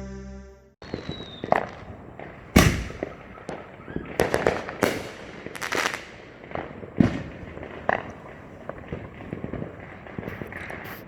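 Fireworks going off across a neighbourhood: an irregular string of sharp bangs and pops, some close together in quick clusters, the loudest about two and a half seconds in.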